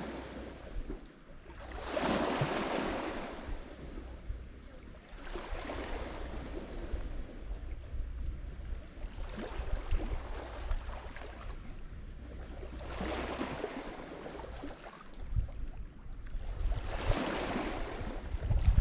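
Lake Michigan waves breaking on the shore, each wash of surf swelling and fading about every three to four seconds over a steady low rumble.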